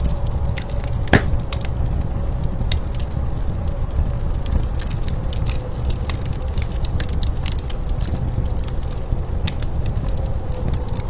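Wood fire crackling with irregular sharp pops, one louder pop about a second in, over a steady low rumble of blizzard wind.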